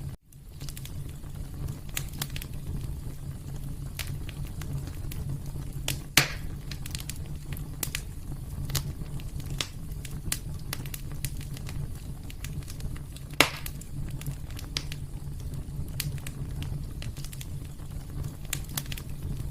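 Wood fire crackling in a fireplace: a steady low rumble of burning with scattered small pops and snaps, and two louder pops about six and thirteen seconds in.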